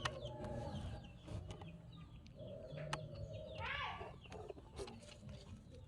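Faint chicken clucking, with one louder call about four seconds in that rises and falls.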